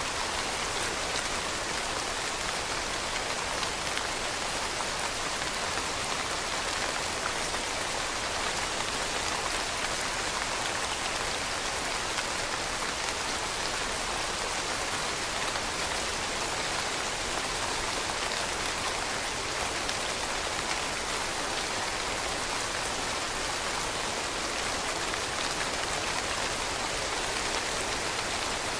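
Steady rain falling on leaves, an even hiss with scattered faint drop ticks.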